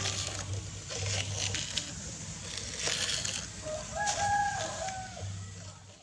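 A rooster crowing once, about four seconds in, over steady outdoor background noise with scattered clicks.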